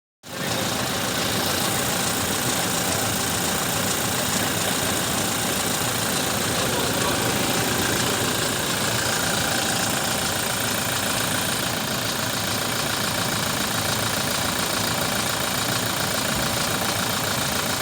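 Toyota Hilux 2.8-litre engine idling steadily.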